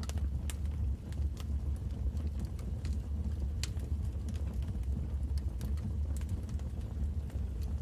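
Wood fire burning in a fireplace: a steady low rumble of flame with irregular sharp crackles and pops from the burning wood.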